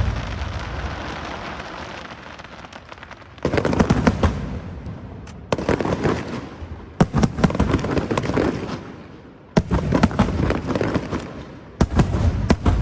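Fireworks going off in volleys: five times, a cluster of sharp bangs breaks out, then dense crackling fades over a second or two.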